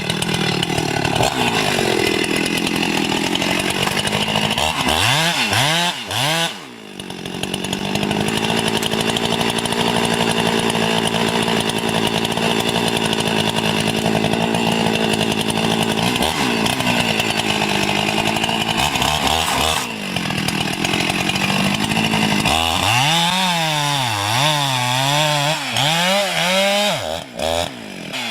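Chainsaw running at high speed while cutting wood. Its engine note dips briefly about six seconds in, then rises and falls quickly over and over near the end as the throttle is worked.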